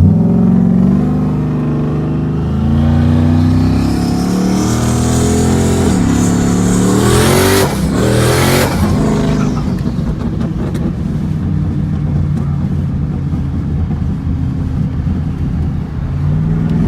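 Turbocharged Ford Coyote V8 pulling the car along, with a high turbo whine rising over several seconds and a loud hissing rush about eight seconds in. After that the engine settles to a steady drone.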